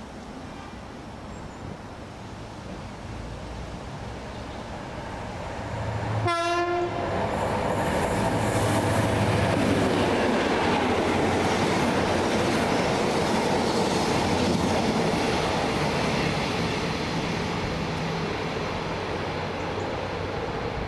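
A Caledonian Sleeper train approaching, giving one short horn blast about six seconds in. It then passes close by with a loud, continuous rush of wheel and rail noise that eases off near the end.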